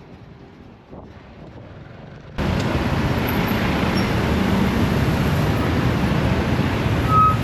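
Motorcycle taxi riding through city traffic: steady engine, wind and road noise that starts suddenly and loud about two and a half seconds in, after a quieter stretch. A brief high beep sounds near the end.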